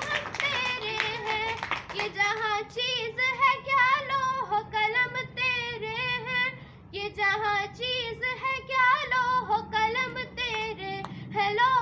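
A child's high voice singing melodic phrases of Urdu verse, with a short pause about two thirds of the way through.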